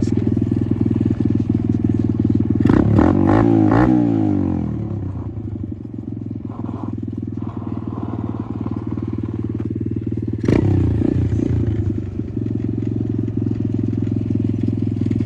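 Apollo RFZ 125cc dirt bike engine running under a rider, with the revs rising and then falling about three seconds in, and a sudden sharp knock about ten and a half seconds in.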